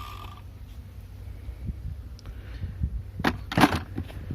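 Low steady rumble with two short scratchy rustles a little after three seconds in.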